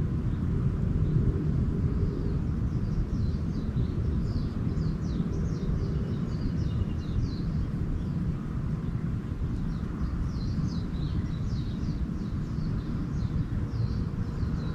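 Small birds chirping in two spells of quick, high, short notes, over a steady low rumble that is the loudest part of the sound.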